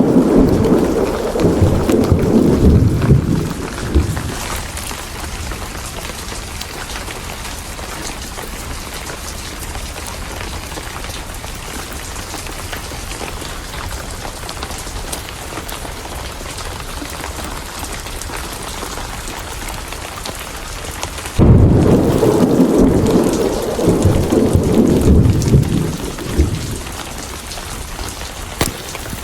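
Steady heavy rain throughout, with two rolls of thunder: one already rumbling at the start and dying away within about four seconds, and a second that cracks in suddenly about three quarters of the way through and rumbles on for about five seconds.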